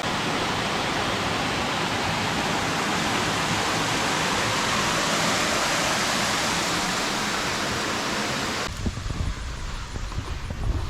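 Steady rushing water from a creek or waterfall close by. It cuts off suddenly near the end, leaving quieter open air with low rumbling bumps.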